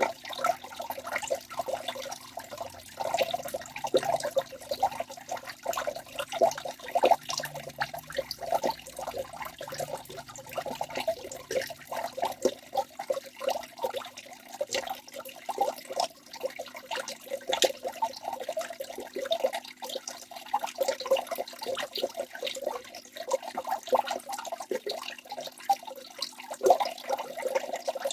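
Waterfall in a forest: water pouring and splashing continuously, with a busy irregular patter of small splashes.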